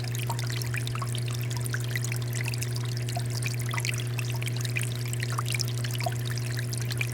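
Water fountain flowing: water pouring and splashing steadily, with many small droplet splashes and a steady low hum underneath.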